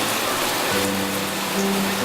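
Steady rain falling, a dense even hiss, with slow sustained keyboard music notes playing over it.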